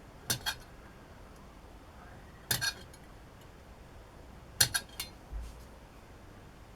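Sharp metallic clinks of steel tools on metal, in three quick groups of two or three taps.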